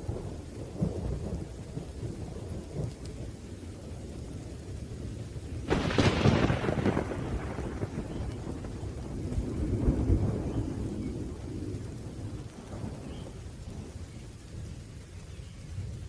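Thunderstorm: rolling thunder rumbling under steady rain. A sharp thunderclap about six seconds in rolls off into rumble, and the rumble swells again around ten seconds.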